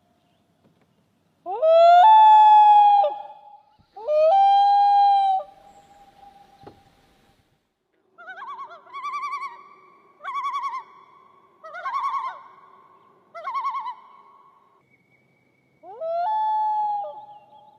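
An animal calling: three long, level-pitched calls with a quick rise at the start, and between them a run of four shorter, warbling calls at an even pace.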